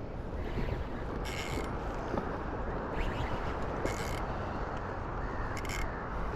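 Spinning reel being wound and working against a hooked pinky snapper, with three short high-pitched bursts of reel noise. A steady wind-and-water rumble runs underneath.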